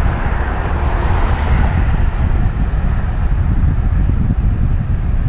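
Wind buffeting a helmet-mounted action camera's microphone while cycling along a road, a loud, steady low rumble, with a rushing swell about a second in that fades away.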